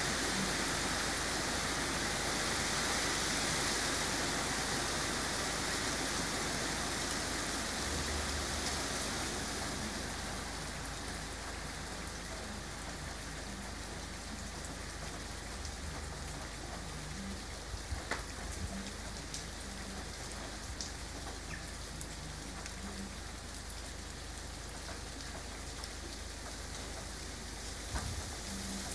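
Steady rain falling, heavier at first and easing off about ten seconds in, with a few sharp ticks of drops landing close by.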